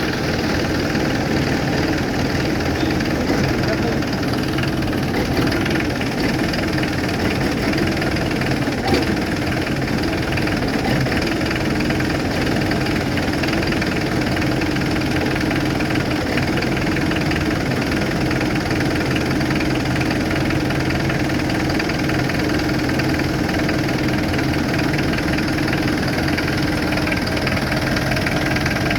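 Toyota forklift engine running steadily at idle.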